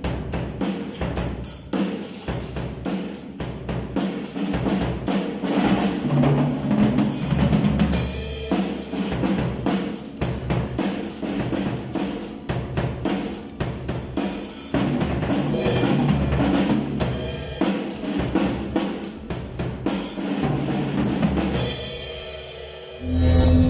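Drum kit played as a continuous groove of bass drum, snare and cymbals, its stock thin heads damped with gray duct tape to cut the ringing overtones. Near the end the drumming stops and a music track with steady bass notes comes in.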